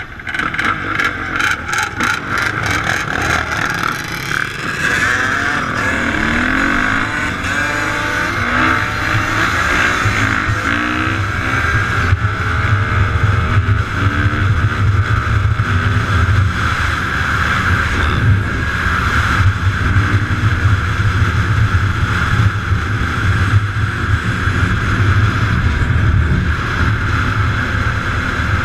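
Dirt bike engines running, their pitch rising and falling again and again as they rev.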